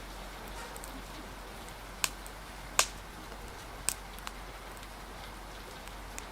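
Wood fire crackling, with a few sharp pops between about two and four seconds in, over a steady hiss of rain.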